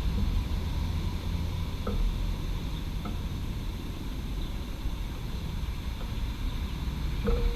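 Steady low rumble of urban traffic, with a few faint ticks from a Ducati motorcycle cooling off: one about two seconds in, another about a second later, and one near the end.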